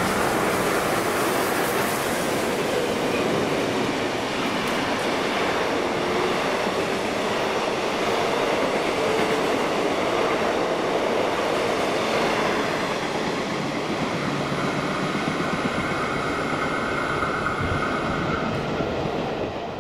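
Victorian Railways R-class steam locomotive R711 and diesel T395 thundering through a station at speed with a train of passenger carriages. The locomotive passes first, then the carriages roll by, a loud steady din that dies away right at the end.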